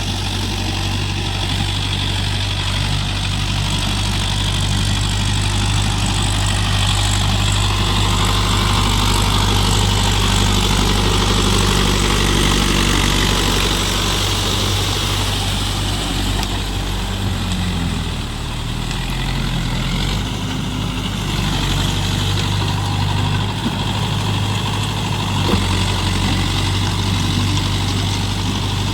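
Mahindra Yuvo Tech+ 585 DI tractor's diesel engine running steadily. Its pitch drops for a few seconds about two-thirds of the way through, then comes back up.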